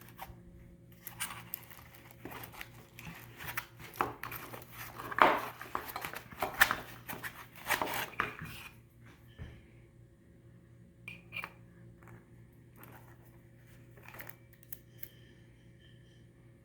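Packaging of a set of LED headlight bulbs being opened and handled: crinkling, rustling and sharp clicks, densest and loudest in the middle, then only a few scattered clicks over a faint steady hum.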